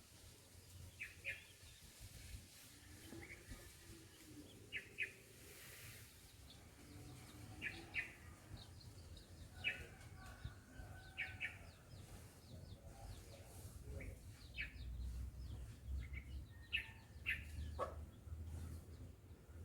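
Small birds chirping in short, sharp calls, often in quick pairs, scattered every few seconds over a faint low rumble of breeze.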